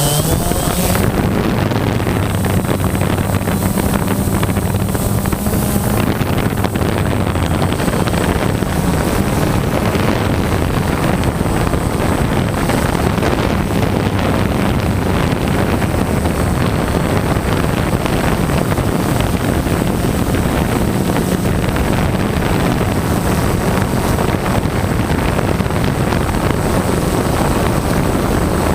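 DJI Phantom quadcopter's motors and 9-inch propellers running steadily in flight, a low hum under heavy wind rush over the microphone.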